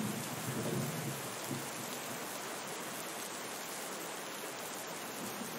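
Steady rain falling, an even hiss, with a low rumble dying away in the first second or so.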